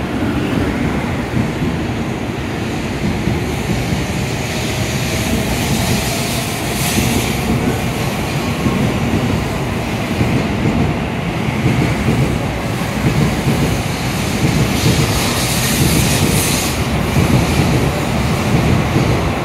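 N700-series Shinkansen train pulling out of the station past the platform: a steady rumble of wheels on rail and running gear that grows slightly louder as it picks up speed.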